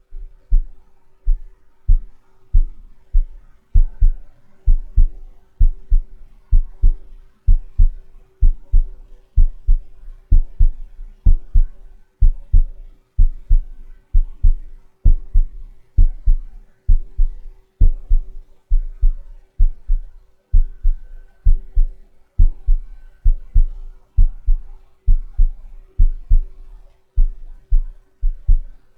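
Rhythmic tapping with a cotton swab: dull, deep taps in quick pairs or triplets, repeating a little more than once a second like a heartbeat, over a faint steady hum.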